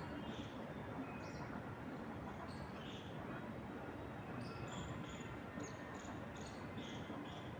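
Steady rushing wind through trees, with short, high bird chirps scattered over it, coming more often in the second half.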